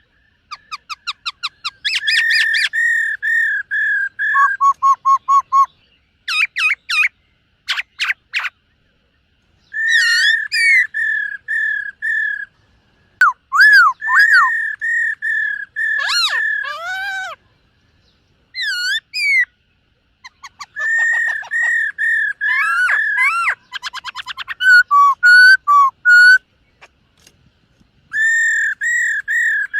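Black-throated laughingthrush singing: loud, clear whistled phrases of repeated notes mixed with rising and falling slurs and quick trills, delivered in bursts separated by short pauses.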